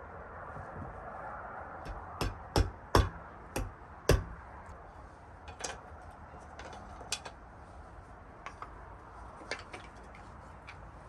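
Sharp taps and clicks of art tools being handled and set down on a hard work surface. About five loud knocks come in quick succession about two seconds in, followed by scattered lighter clicks.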